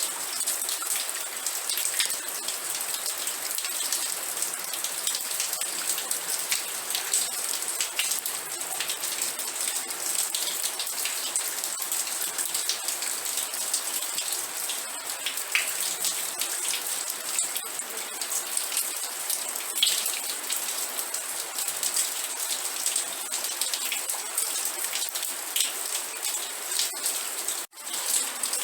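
Steady rain falling, a continuous hiss with individual drop hits standing out here and there. It breaks off for a split second near the end and resumes.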